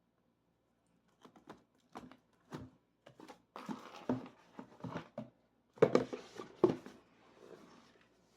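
Packaging and gift-box items being handled: a string of light knocks and taps with some crinkling, two louder knocks about six seconds in, then a soft rustle.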